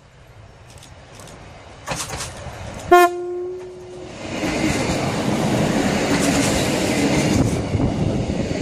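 Class 628 diesel multiple unit approaching and passing close by: one short horn blast about three seconds in, then the loud rumble of its wheels on the rails and its running gear as the two-car train goes past.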